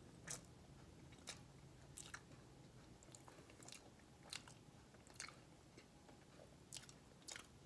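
Faint mouth sounds of a person chewing a bite of soft, frosted layer cake: about eight small wet clicks spaced irregularly, each under a second apart, over near silence.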